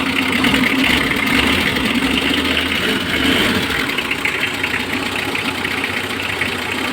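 Mitsubishi L300's 4D56 four-cylinder diesel engine idling steadily, just after it has been started following a hard-starting problem.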